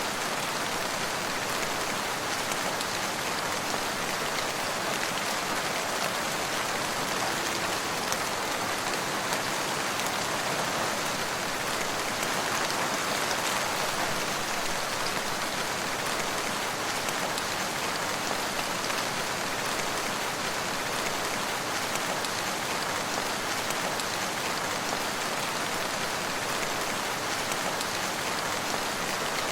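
Steady rain falling: a dense, even hiss of many drops, with fine scattered patters.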